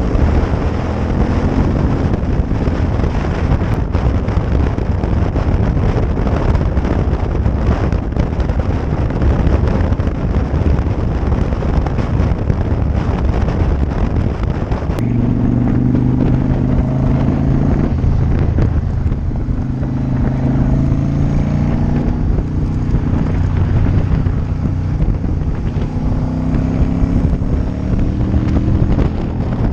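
Motorcycle engine running under way, with heavy wind noise on the GoPro Hero 4 Session's microphone. About halfway through, the wind noise eases and the engine's pitch comes through more clearly, rising and dropping in steps as it changes gear.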